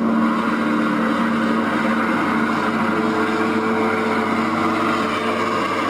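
Sound effect of heavy garbage truck engines running with a steady drone.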